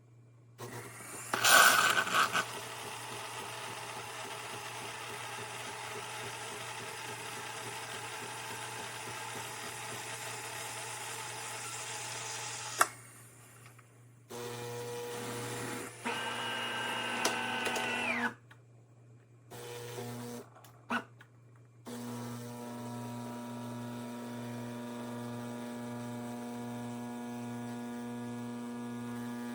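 De'Longhi Magnifica Start fully automatic espresso machine running: a loud start about a second in, a long even whirr, then several shorter runs of steady humming that start and stop suddenly.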